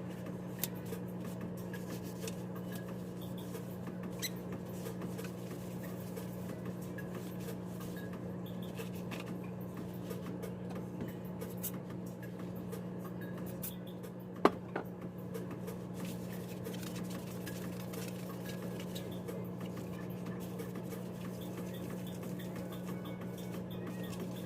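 Small scattered clicks and light handling noises, with one sharper click about fourteen seconds in, over a steady low hum.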